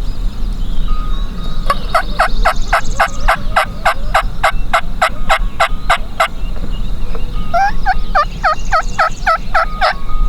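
Turkey yelping in two long runs of evenly spaced notes, about four to five a second; the second run, starting near the middle, has notes that dip and rise in pitch.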